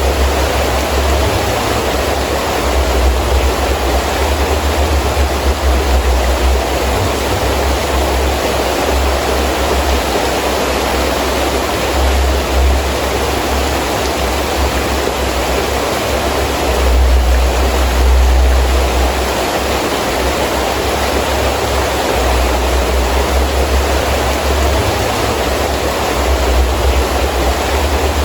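Heavy rain falling steadily with gusting wind, a low rumble of gusts swelling and easing, strongest about two-thirds of the way through.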